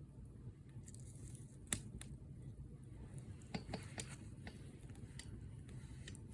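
Campfire burning with a steady low rumble and scattered crackles, the sharpest pop a little under two seconds in.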